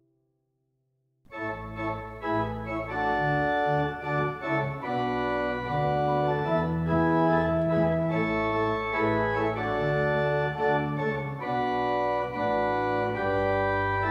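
Organ playing a series of held chords over a moving bass line, coming in suddenly after about a second of silence.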